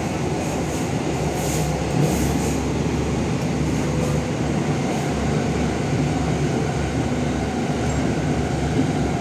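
MTR Tung Chung line K-Train running, heard inside the car: a steady rumble of wheels on track, with faint steady hums from the VVVF inverter and traction motors.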